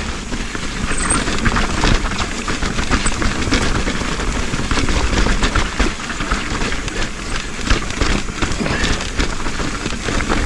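Trek Slash full-suspension mountain bike riding a wet, slick dirt trail: steady rolling noise from the tyres with frequent small knocks and rattles from the bike over rough ground.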